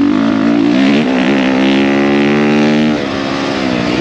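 450 dirt bike's single-cylinder four-stroke engine running under riding load: its pitch climbs about a second in, holds steady, then drops along with the level about three seconds in.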